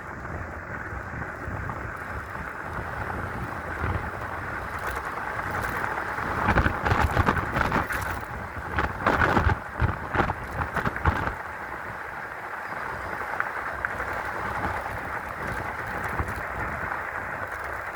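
Wind rushing and buffeting over the microphone while riding an electric bike, with heavier gusts hitting the mic from about six to eleven seconds in.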